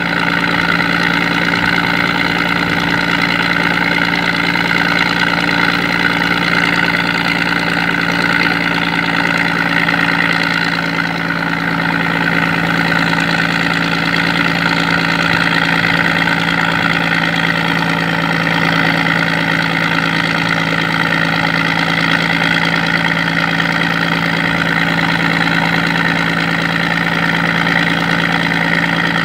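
Scania 113 inline-six diesel engine driving a sand dredge, running steadily at an even speed.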